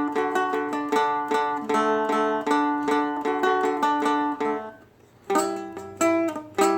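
Seagull Merlin, a four-string fretted dulcimer, picked in a steady run of notes, about four a second, over ringing open lower strings. The playing breaks off briefly about five seconds in, then a few more notes are played.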